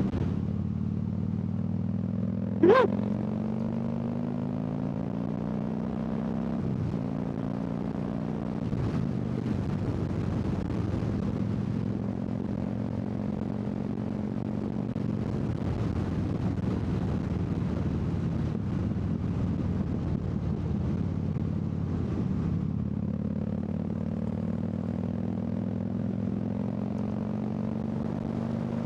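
Harley-Davidson V-twin motorcycle engine running steadily on the move, its pitch rising slowly in gear now and then. A short, sharp sound stands out about three seconds in.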